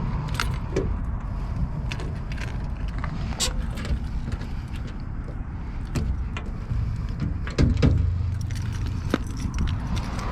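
Cat C7 diesel engine of a Blue Bird All American bus running with a steady low rumble, overlaid by frequent metallic clicks and clinks, with a louder low swell from the engine about three-quarters of the way through.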